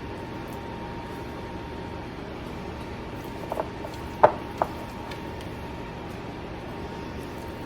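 A spoon clinks lightly a few times against a dish while scooping the chicken filling, then gives one sharp knock and a second one just after, about four seconds in. A steady low hum runs underneath.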